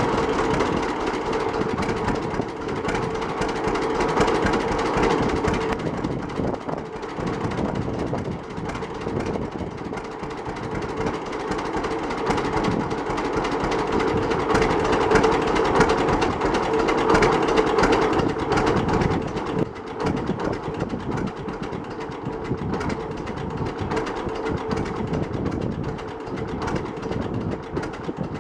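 1939 John Deere Model D's horizontal two-cylinder engine running with a rapid, steady putt-putt, freshly tuned with a rebuilt magneto and carburetor and new spark plugs. It gets somewhat quieter about two-thirds of the way through.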